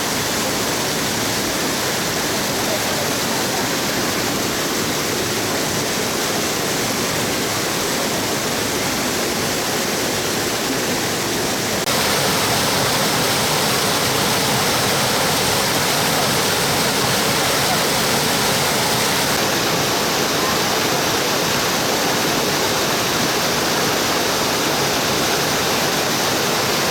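Rushing water of a mountain stream, a steady full roar that steps up suddenly in loudness about halfway through.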